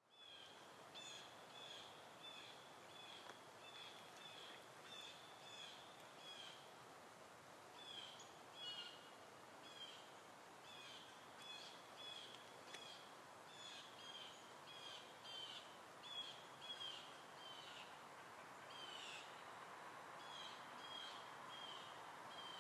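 Faint bird calls: short, high, slightly falling notes repeated about one to two times a second with brief pauses, over a soft hiss.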